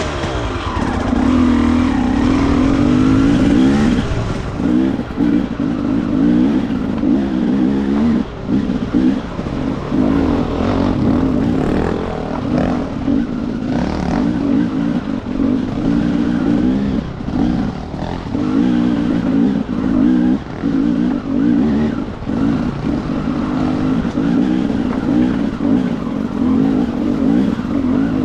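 Enduro motorcycle engine revving hard and easing off again and again, every second or two, as the bike is ridden up a rocky track. Sharp knocks are scattered through it.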